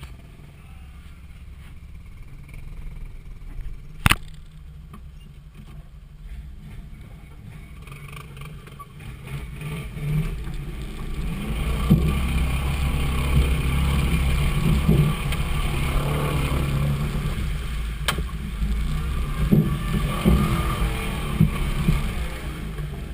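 A motor vehicle engine running with a low rumble. It grows louder from about ten seconds in and eases near the end, with a single sharp knock about four seconds in.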